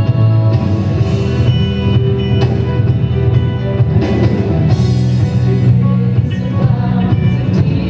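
Live worship band playing a song in a church service, with drums and guitar over sustained chords and cymbal swells.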